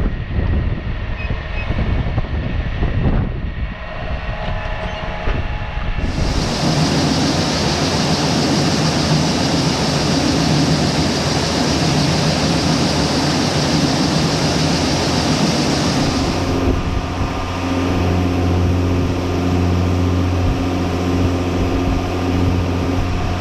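John Deere 6155M tractor running as it hauls loaded grain wagons, its engine hum mixed with a steady rattling of the wagons. The sound changes abruptly twice, about 6 seconds in and again about 16 seconds in.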